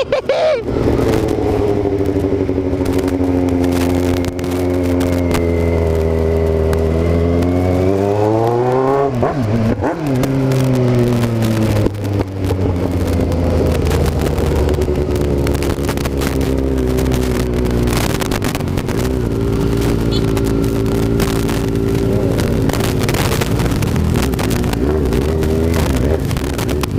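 Kawasaki Z750's inline-four engine running on the move, its pitch climbing sharply about eight seconds in and dropping back about two seconds later, then running steadily with further pitch changes later on. Wind buffets the microphone throughout.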